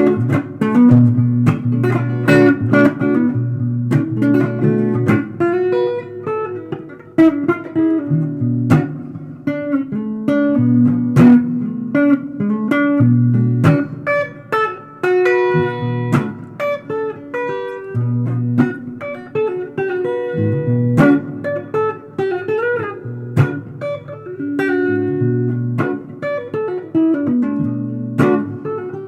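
Guitar improvising in a bluesy style: single plucked notes and short phrases over low bass notes, with a few bent notes about two-thirds of the way through.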